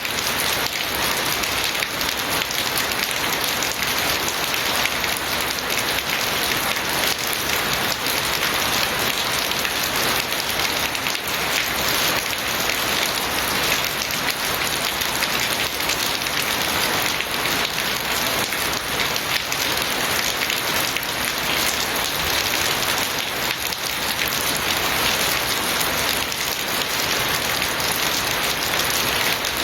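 Steady heavy rain falling, a dense, even hiss of drops striking surfaces.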